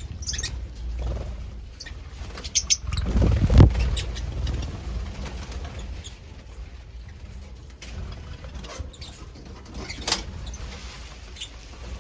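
Lovebirds moving about: short high chirps and scattered light clicks and rustles, with a louder low thump and rumble about three and a half seconds in.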